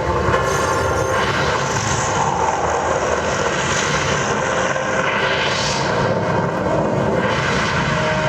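The projection-mapping show's soundtrack playing loud through outdoor loudspeakers: a dense, rumbling roar of sound effects, with two rushes of higher noise swelling up about two seconds and five and a half seconds in.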